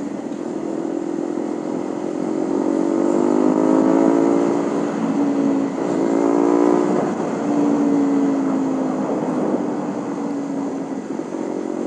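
Honda CB150R motorcycle engine pulling while riding, its pitch rising twice as it accelerates and then holding steadier, over wind rushing on the microphone.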